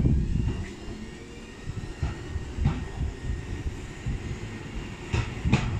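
Tobu Railway electric commuter train pulling out of the platform: a low rumble of the moving cars with a few sharp clacks of wheels over rail joints, two of them close together near the end.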